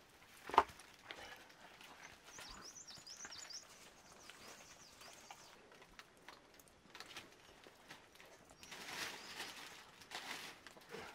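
A single sharp knock about half a second in. It is followed by a bird chirping a quick run of short, high notes, then scattered small clicks and rustling near the end.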